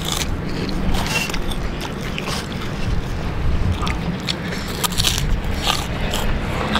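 Close-up chewing and crunching of crisp food, kerupuk crackers, with many short crackly bites scattered through.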